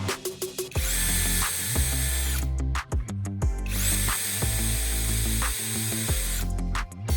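A small power-tool motor runs in two long bursts, its whine rising as it starts and falling as it stops, with quick rattling clicks in the short gaps between. Background music with a steady beat plays throughout.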